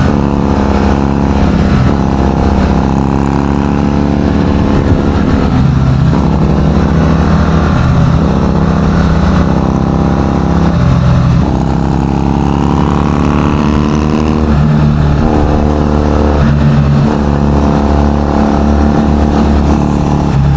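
Triumph Bonneville T100 parallel-twin engine and exhaust rumbling while the bike is ridden. It holds steady revs, dips briefly about a quarter, halfway and three-quarters of the way through, and climbs in revs a little after halfway.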